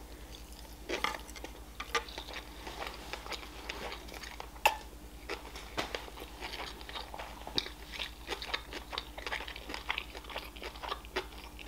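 Close-up chewing of a mouthful of sushi roll: many short, irregular wet clicks and small crunches from the mouth, with no words.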